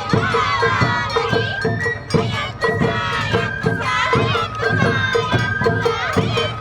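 Awa Odori hayashi music: a shinobue bamboo flute playing a melody of held, stepping notes over the fast, steady clang of a kane hand gong and regular taiko drum strokes.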